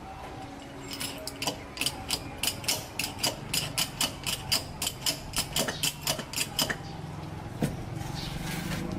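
Hand ratchet wrench clicking as it is worked, about four clicks a second, stopping about two-thirds of the way through, over a steady low hum.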